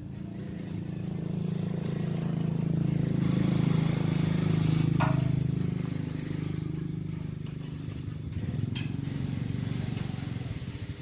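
A motor vehicle's engine running, growing louder to a peak a few seconds in and then fading, like a vehicle passing by. A couple of short high chirps sound over it, one about halfway through.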